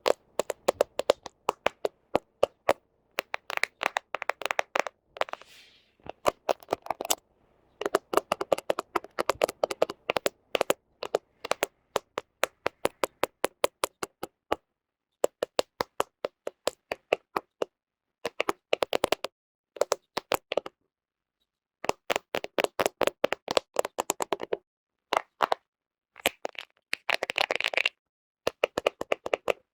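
Fingernails tapping and scratching on a camera lens close to the microphone: rapid trains of sharp clicks in bursts of a second or two, broken by short silent gaps, with a longer scratchy stretch near the end.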